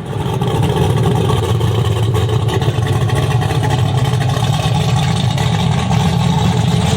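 A vehicle engine running at a steady, loud rumble, without revving up or down.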